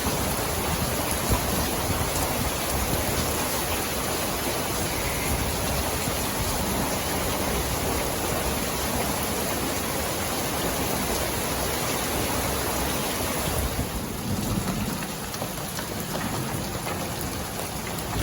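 Heavy rain mixed with hail pelting down, a dense steady hiss with a low rumble under it, easing slightly about fourteen seconds in.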